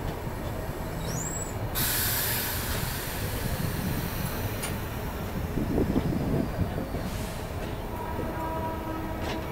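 Train rumbling steadily, with a sudden hiss starting about two seconds in that slowly fades away.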